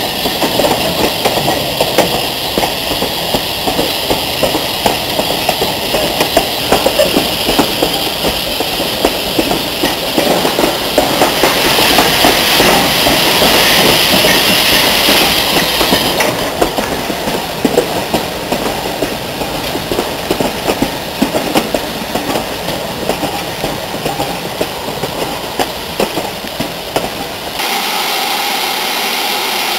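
Steam-hauled train running past, its wheels clattering over the rail joints with a continuous rapid clicking, and a stretch of hiss about twelve seconds in. Near the end the sound switches abruptly to a steady rushing noise.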